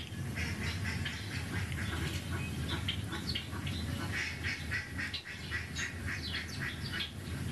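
Small birds chirping in quick, short notes, played through a TV's speakers, busiest from about three seconds in, over a low steady hum.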